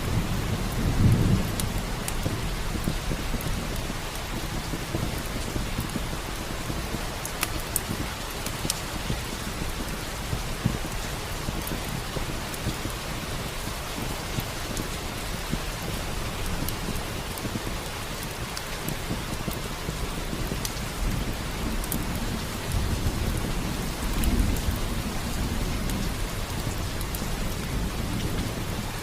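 Steady rain with low rumbles of thunder about a second in and again near the end, and scattered sharp crackles from a wood fire.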